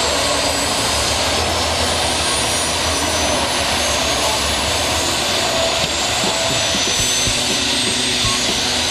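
Helicopter running: a steady, loud rush of rotor and turbine noise with a faint high turbine whine.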